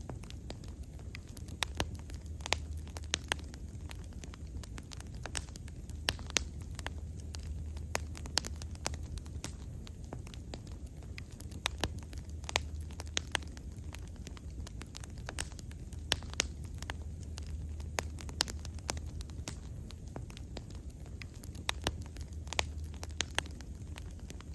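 Wood fire burning steadily, with frequent irregular sharp crackles and pops over a low steady rumble.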